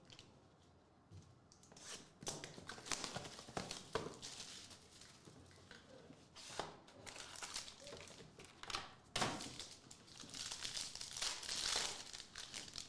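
Foil trading card pack wrapper being torn open and crinkled, with cards handled, in irregular crackles and sharp snaps.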